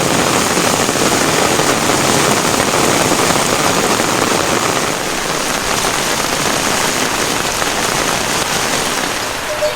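Steady rain falling, a loud, even hiss with no pauses.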